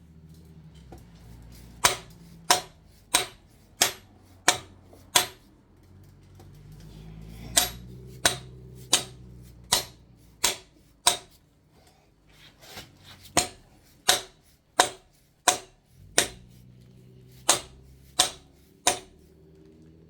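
A plastic hammer strikes the old sprocket, used as a driver, to seat a new crankshaft timing sprocket onto an LS 5.3 V8's crank snout. About twenty sharp whacks, roughly one and a half a second, come in four runs with short pauses between them.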